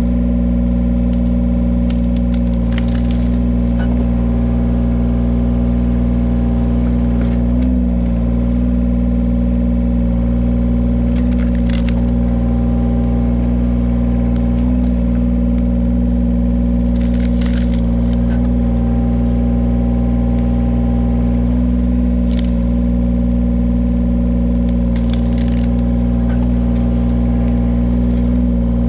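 Engine of a firewood-splitting machine running steadily, its note dipping briefly about every seven seconds as it takes load. Sharp cracks of wood splitting come every few seconds.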